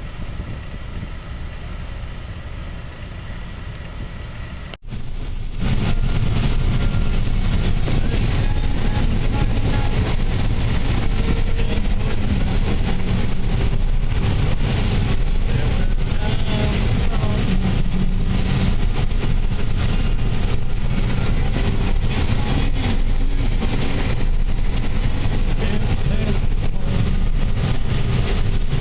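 Wind noise on the microphone, then, after a short break about five seconds in, a louder steady rumbling noise with a heavy low end.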